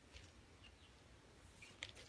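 Near silence: room tone, with a faint short click near the end.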